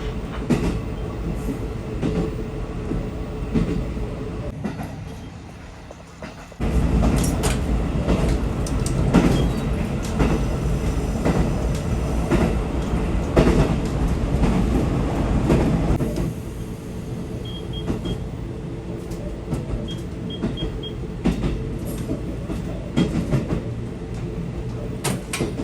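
A train running on the rails, with a steady rumble and repeated clicks. It becomes suddenly much louder about six seconds in and eases back after about ten seconds. A few short high beeps sound near the middle.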